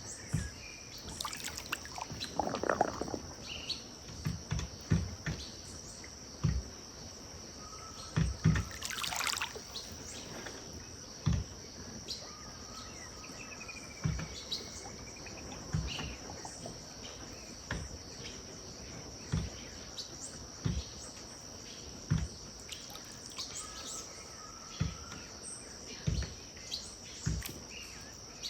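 Riverbank ambience: scattered whistled bird calls over a steady high insect drone, with frequent short, low splashes of river water lapping at the bank.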